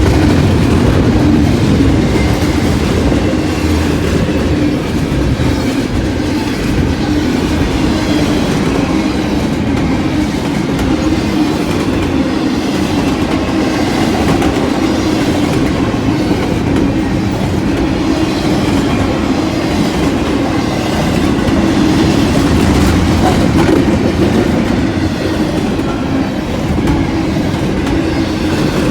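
Freight train cars rolling past close by: a steady, loud rumble of steel wheels on the rails with no pause.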